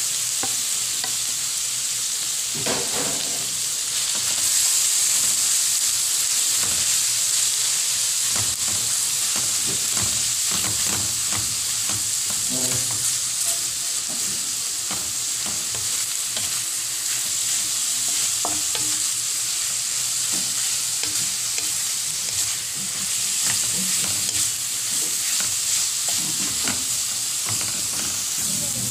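Flaked milkfish frying in butter in a metal wok, a steady sizzle, while a wooden spatula stirs it with scattered scraping and tapping against the pan.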